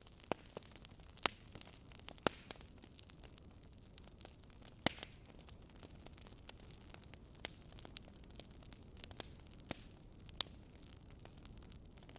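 Firewood burning in a campfire, crackling: irregular sharp pops, a handful of them louder, over a low steady rumble.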